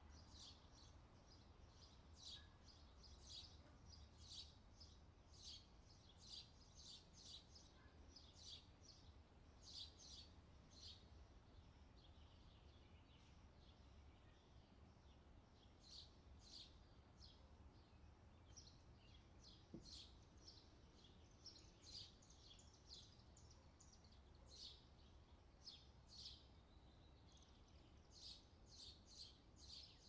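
Near silence with faint bird chirps in the background, short and irregular, scattered all through, over a low steady hum.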